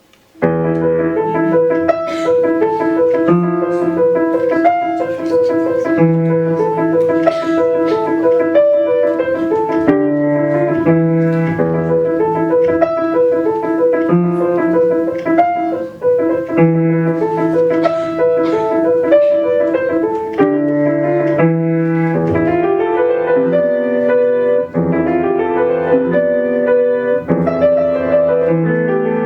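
Solo piano playing a melody over a repeating accompaniment figure, starting abruptly right at the start.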